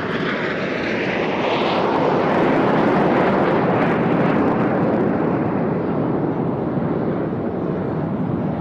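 Jet noise from Red Arrows BAE Hawk T1 jets passing: it builds to a peak about three seconds in, then fades slowly, with a high whine that falls in pitch as they go by.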